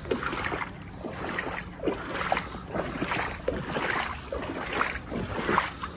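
Legs wading through knee-deep floodwater, sloshing and swishing with each stride, about two surges a second.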